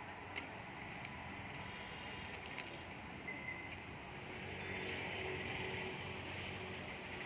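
A Vande Bharat Express train and an electric locomotive hauling coaches approaching in the distance: a steady low rumble and hiss with a few faint clicks, growing louder about four and a half seconds in.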